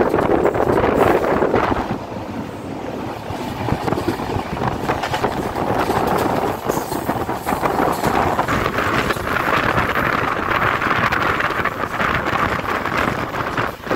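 A Jan Shatabdi Express passenger train running at speed, heard from an open carriage window: steady rolling noise with the rapid clatter of the wheels on the rails and wind rushing over the microphone.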